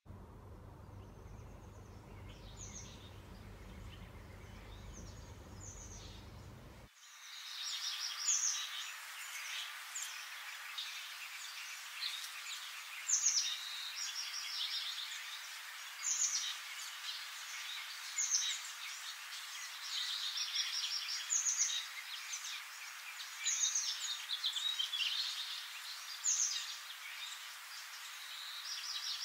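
Songbirds chirping and singing, with one high call that falls in pitch recurring about every two to three seconds. A low rumble lies under the birdsong for the first seven seconds and then cuts off suddenly.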